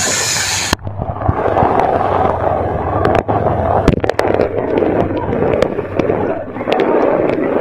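Heavy rain pouring onto a flooded street: a dense wash of rain noise with many scattered sharp cracks. The sound changes abruptly under a second in, from a bright hiss to a duller wash.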